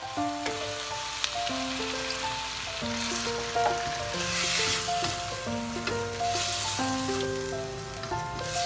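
Chicken thigh pieces and shiitake mushrooms sizzling in a hot frying pan as they are stirred; the sizzle swells about four seconds in, when half a cup of water goes into the pan. Background music with a simple melody plays over it.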